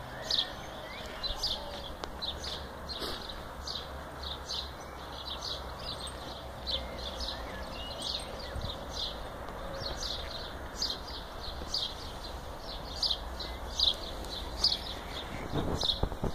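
A small bird calling over and over in short high chirps, about two or three a second, with a rustle near the end.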